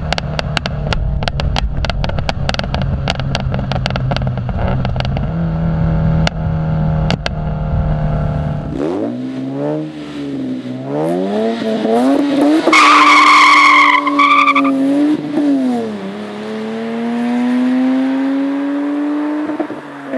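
Car engine and exhaust at high volume: first an engine running with a rapid series of sharp pops. Then a different engine revs up and down several times, with a tyre squeal for about two seconds in the middle and a long climb in revs near the end.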